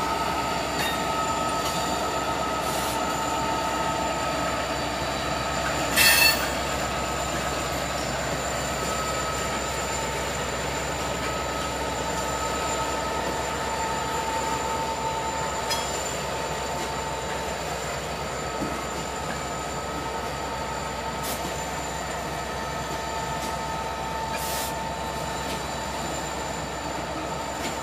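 Norfolk Southern freight train rolling slowly past, its wheels squealing on the rail in steady high rings over the rumble of the cars. A loud sharp metallic clank comes about six seconds in, and a few lighter clicks follow later.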